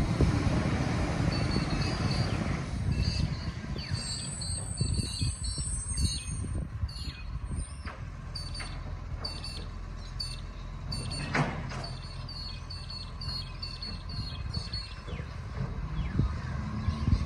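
Garbage truck engine running with a low rumble, loudest in the first few seconds and then easing; birds chirp repeatedly over it.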